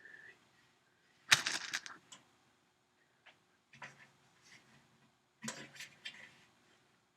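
Pneumatic rivet gun hammering solid aluminium rivets in three short bursts of rapid blows, the first, about a second and a half in, the loudest; each burst sets a rivet against a bucking bar.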